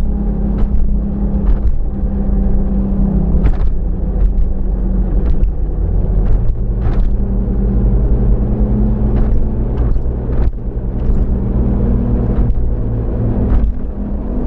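Car driving, heard inside the cabin: a steady engine and road rumble with a low drone that shifts pitch a little, and many short, irregular ticks over it.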